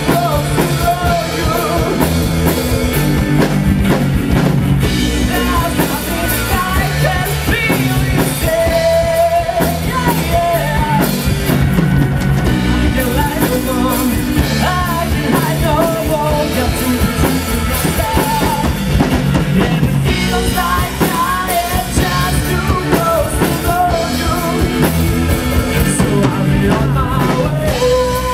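A rock band playing live, with drum kit, bass, electric guitar and a lead singer, loud and steady throughout.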